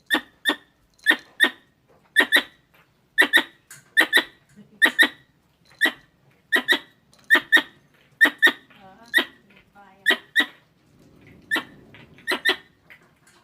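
Squirrel calls: sharp, short chirps, mostly in pairs or threes, repeating about once a second.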